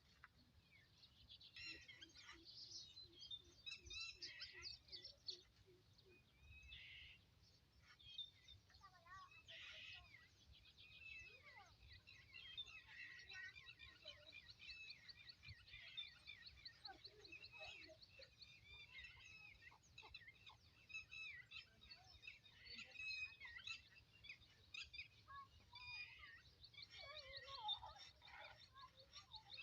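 Faint birdsong from several birds, with scattered high chirps and whistled slides, and a fast trill of repeated high notes through the second half.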